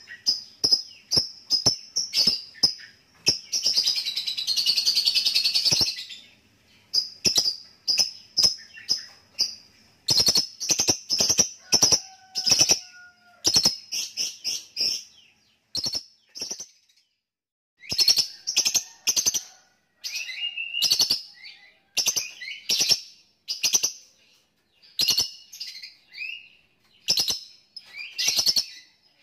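Lovebird calling: sharp, high chips in quick runs, the clipped 'ngetik' calls, with one unbroken chattering trill of about two seconds a few seconds in and a short pause around the middle.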